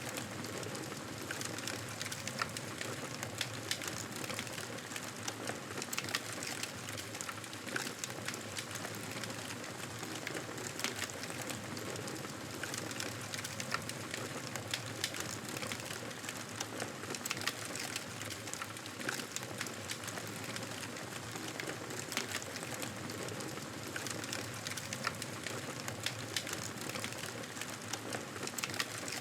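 Wood fire crackling steadily, a constant hiss dotted with frequent small sharp pops and snaps.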